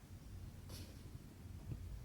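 Cross-stitching by hand: a short swish of cotton thread drawn through 14-count fabric, about two-thirds of a second in, over a low steady room hum, with a couple of faint soft taps near the end.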